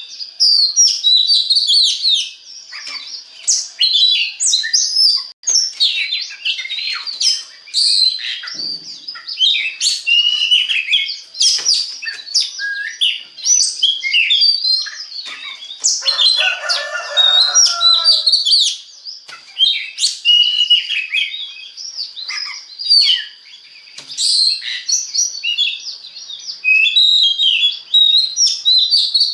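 Oriental magpie-robin (kacer) singing a continuous, varied song of quick whistles, chirps and trills, with a harsher, lower buzzy phrase around two-thirds of the way through. A thin steady high tone runs underneath.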